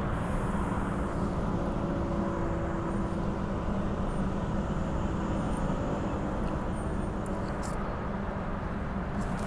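Bombardier B-series electric multiple unit running at speed, heard from inside the carriage: a constant rumble of wheels on rail with a low steady hum.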